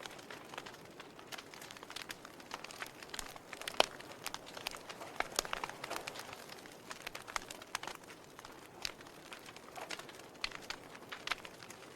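Wood fire crackling: irregular sharp pops and snaps over a soft, steady hiss, with one louder pop a little before four seconds in.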